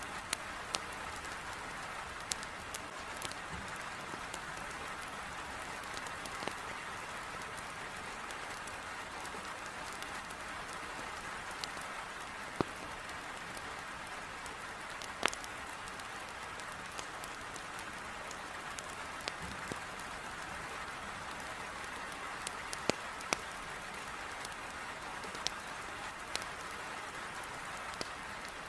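Heavy rain beating on a window in a steady hiss, with a wood fire in a fireplace crackling in scattered sharp pops.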